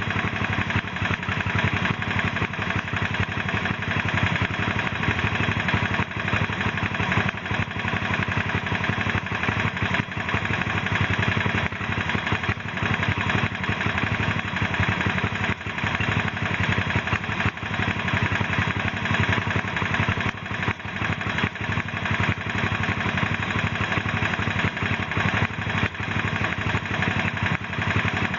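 Honda Super Cub's single-cylinder four-stroke engine idling steadily with a rapid mechanical clatter running through it. This is an abnormal engine noise whose cause the owner does not know.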